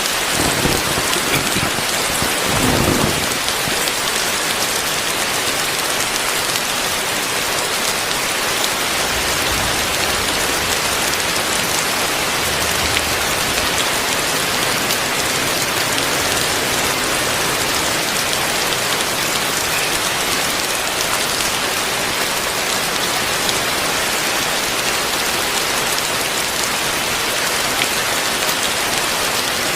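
Heavy rain pouring steadily onto surfaces, a dense, even hiss. A low rumble swells a few times in the first three seconds.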